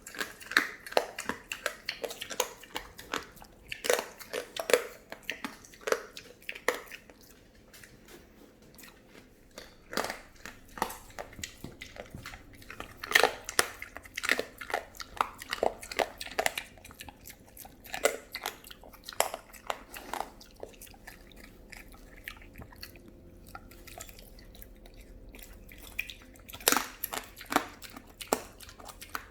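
Pet pig chewing with its mouth open, a run of irregular wet smacks and crunches, a few a second, easing off for a few seconds about three quarters of the way through before picking up again near the end.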